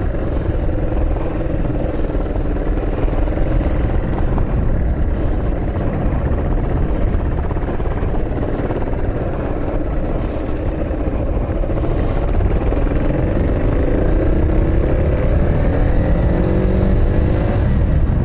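A motor vehicle driving, with steady low road and engine rumble; from about two-thirds of the way through, the engine note rises steadily as it speeds up.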